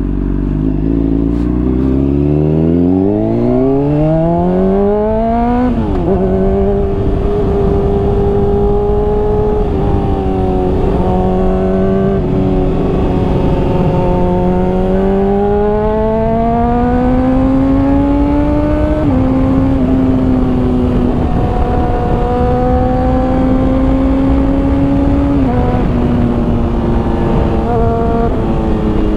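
Honda CBR600RR's inline-four with a Hotbodies slip-on exhaust, accelerating hard with its pitch climbing steeply for about six seconds, dropping at an upshift, then pulling up through further gear changes around ten and nineteen seconds before holding a steadier cruise. Wind rush runs underneath.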